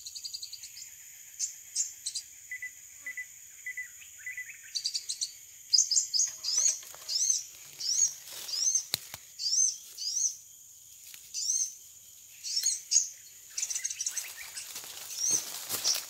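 Small birds chirping: a rapid string of short, high, rising chirps, about two a second, over a steady high insect drone. A noisy rustle comes in near the end.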